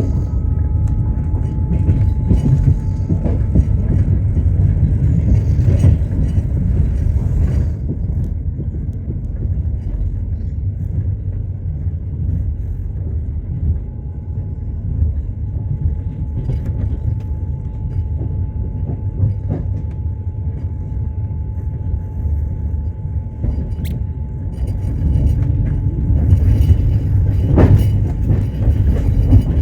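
Train running along the track: a steady low rumble of wheels on rails, with a faint steady whine above it and a single sharp knock near the end.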